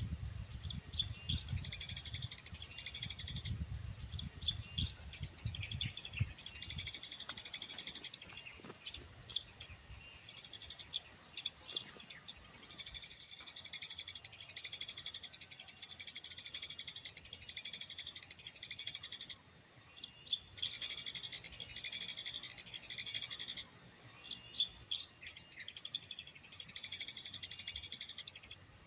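Small birds chirping rapidly and continuously over a steady high-pitched insect drone, with low rumble in the first few seconds. The chirping stops briefly twice in the second half.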